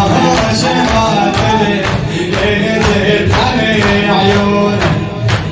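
Shia Muharram latmiya mourning music: a melody carried over a steady beat of sharp strikes, about two a second.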